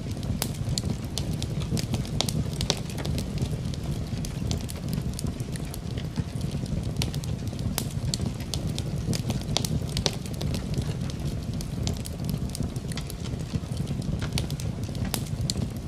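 Wood fire burning in a fireplace: a steady low rumble with frequent irregular crackles and sharp pops.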